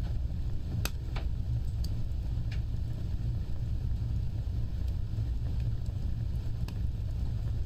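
Fireplace fire burning with a steady low roar of flames and sharp crackles and pops: several in the first three seconds and one near the end.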